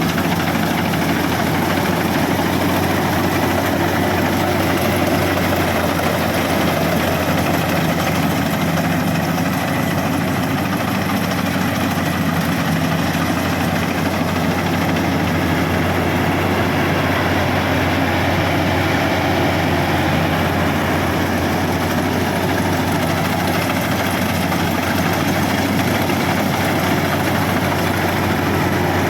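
Rice combine harvester's engine and machinery running steadily, a constant loud drone with a low, even hum.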